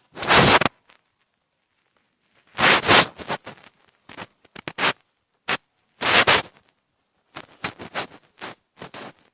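Scratching drawing strokes close to the microphone: longer scrapes at the start, about three seconds in and about six seconds in, with short scratches and ticks between.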